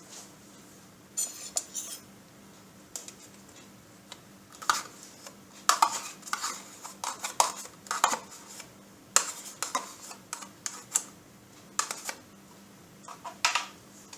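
Kitchen utensil clinking and scraping against a bowl and yogurt pot, in irregular short knocks that come thicker after the first few seconds.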